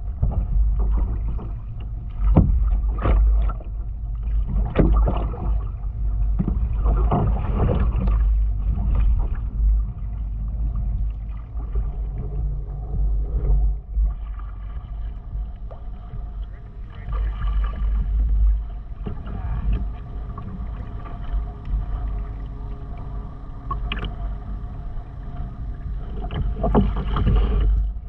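Kayak being paddled: the paddle blades dip and splash in the water in irregular strokes, over a steady low rumble.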